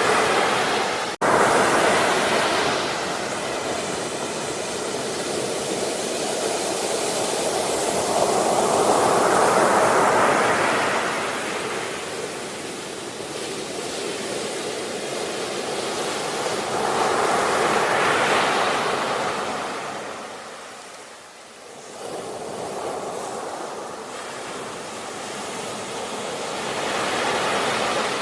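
Sea waves breaking and washing ashore, the surf swelling and fading in slow surges about every nine seconds. A brief gap in the sound about a second in.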